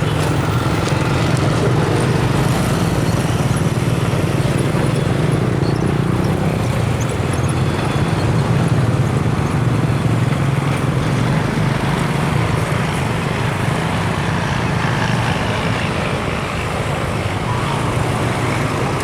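Steady motor-vehicle noise: engines running with a continuous low rumble of road traffic.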